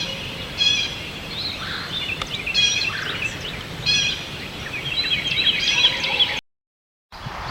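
Blue jay giving its nasal 'jay' call, repeated about five times in a few seconds, over softer twittering from other birds. The recording cuts off near the end and another starts after a short gap.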